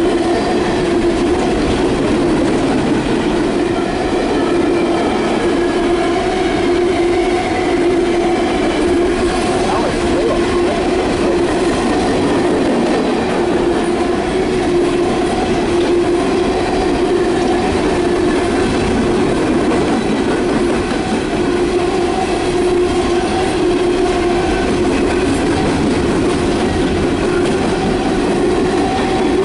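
A long string of empty CSX coal cars rolling past close by: steel wheels on rail making a steady, continuous rumble and clatter, with a held metallic ringing tone running through it.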